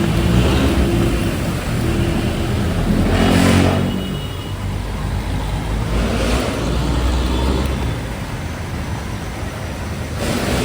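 Road traffic: vehicle engines running at low pitch over a steady hiss, with three vehicles rushing close past, about three, six and ten seconds in.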